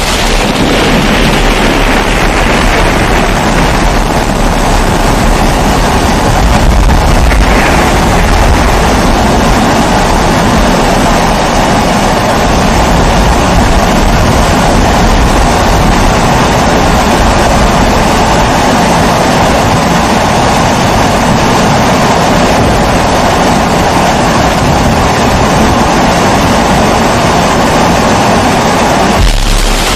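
Kerosene pressure stove (babour) burner running, a steady, even rushing noise.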